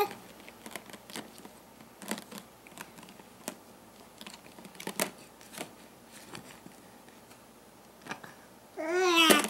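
Faint, scattered small clicks and taps for several seconds, then, near the end, a baby's short loud vocal squeal with a wavering, falling pitch.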